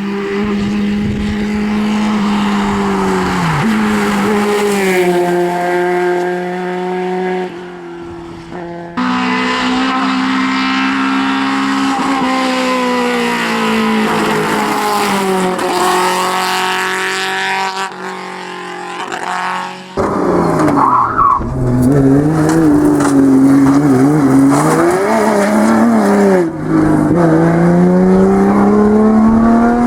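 Race car engines running hard, their pitch climbing and dropping as they rev. The sound breaks off abruptly about nine and twenty seconds in, where one car's run gives way to another's.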